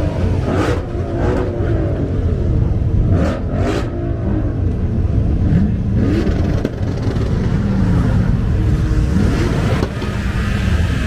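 Pontiac Firebird's engine revving up and easing off again and again as it is driven, its pitch rising and falling every second or two. A few short sharp knocks come in the first four seconds.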